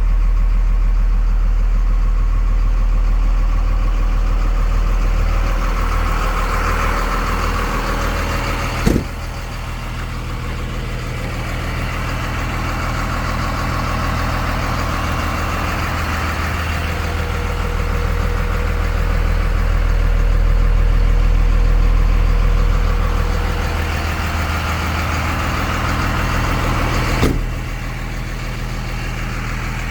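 5.9 Cummins inline-six diesel of a 2000 Ford F650 idling steadily. There are two sharp clicks, about nine seconds in and near the end.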